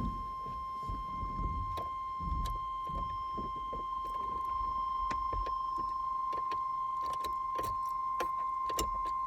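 A steady high-pitched electronic tone that holds unbroken and cuts off suddenly near the end, over scattered sharp clicks and a light jangle.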